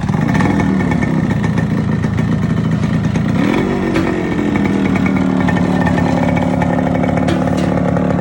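Yamaha RX135's two-stroke single-cylinder engine running just after starting, with uneven revs at first. About three seconds in it revs up and then settles into a steady fast idle.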